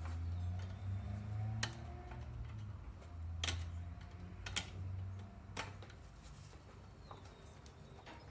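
Hand tools clicking and tapping against a small engine's cylinder head and valve: about five sharp, irregularly spaced metal clicks over a low rumble from handling.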